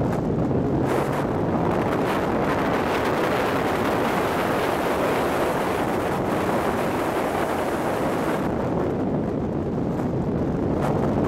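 Nissan S13 Silvia's turbocharged engine running hard at speed on a race track under heavy wind noise on the microphone. The higher hiss thins for a couple of seconds near the end.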